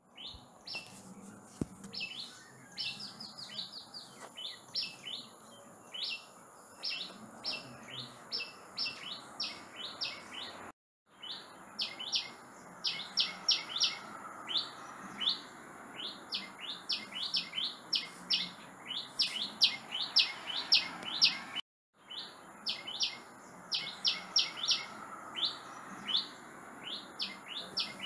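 A small songbird calling: a long, fast run of high, sharp chirps, about three to four a second, twice broken by a brief silence.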